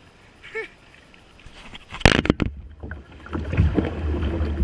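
Kayak on a river: quiet lapping water at first, then a loud sudden splash or knock about two seconds in. It is followed by heavy low rumbling and repeated close splashes of paddle and water.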